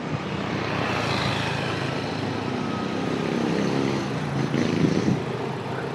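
Motorcycle engine running under way with road and wind noise. Its engine note comes through more strongly a few seconds in.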